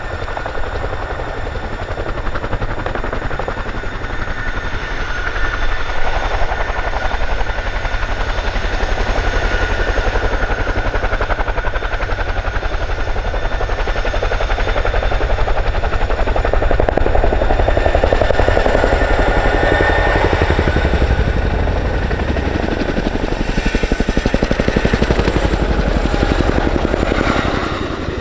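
Boeing CH-47F Chinook tandem-rotor helicopter flying, its two rotors giving a fast, dense chopping with a high turbine whine over it. It grows louder in the middle and drops off just before the end.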